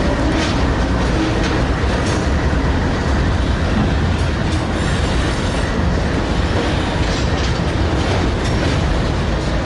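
Union Pacific freight train rolling past close by: a steady rumble of cars on the rails with scattered clicks of wheels over rail joints.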